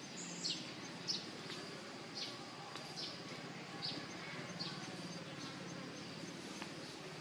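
Repeated short, high-pitched chirps, each sliding downward, about one a second, over a faint steady insect-like buzz.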